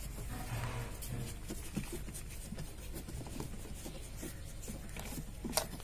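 Faint scattered clicks and light knocks of hands handling the plastic body of an old washing machine while looking for screws, with one sharper click near the end.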